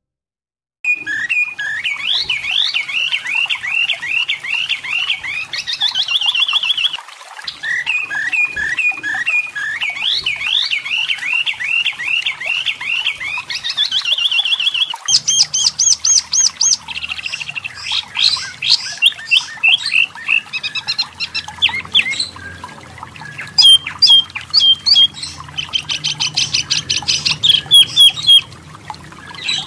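Striped tit-babbler (wambi mini, tepus lurik) singing: runs of quickly repeated chirping notes that start about a second in, with faster, higher trills in the second half.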